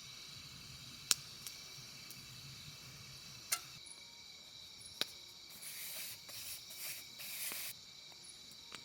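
Campfire crackling, with a few sharp pops, over a steady high chirring of crickets. A rustling hiss runs for a couple of seconds from about five and a half seconds in.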